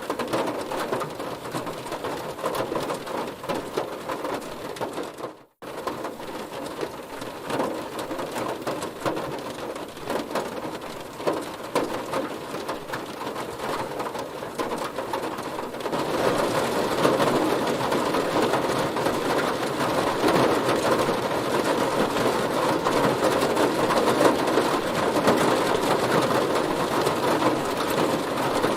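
Heavy rain pattering densely on a car. It cuts out for an instant about five seconds in, then comes back, and just past halfway it gets heavier and louder.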